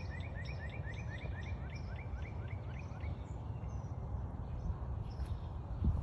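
A bird calling a fast run of short rising chirps, about four a second, dropping lower about two seconds in and stopping about three seconds in. Under it is a steady low rumble, with a thump just before the end.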